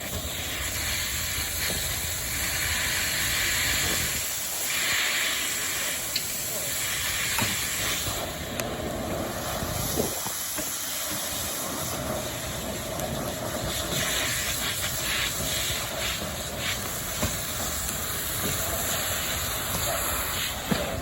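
Fire hose stream hitting a burning car and garage: a steady hiss of spray and steam that swells and eases, with a few sharp cracks.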